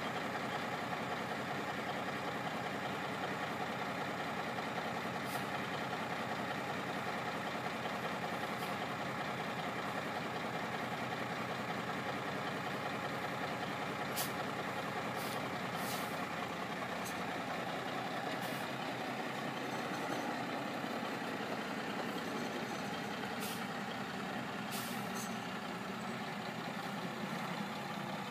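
Diesel engine of an M925A1 military 5-ton 6x6 truck running steadily, with a few short clicks or ticks in the second half.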